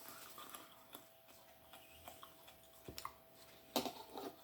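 Faint eating sounds: a few soft clicks and mouth noises of someone chewing, over a faint steady hum.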